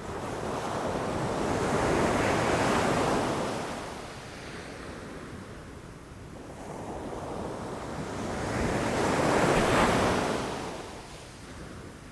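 Ocean waves breaking against rocks: two swells of surf, one peaking about two to three seconds in and a louder one near ten seconds, each washing out over a few seconds.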